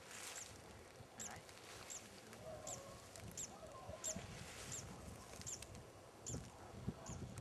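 A small bird repeating one thin, very high chirp, about three every two seconds. Soft rustling lies under it, with a couple of low bumps near the end.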